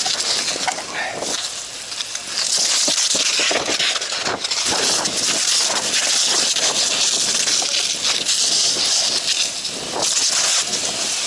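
Fire hose nozzle spraying water with a loud steady hiss that rises about two seconds in, with irregular crackles and pops underneath.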